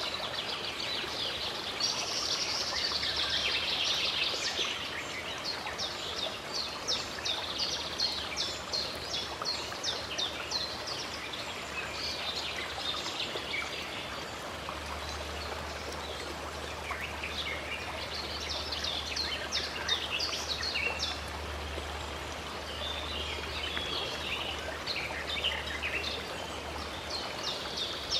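Many small birds chirping and twittering in quick runs over the steady rush of a running stream. A low steady hum comes in about halfway.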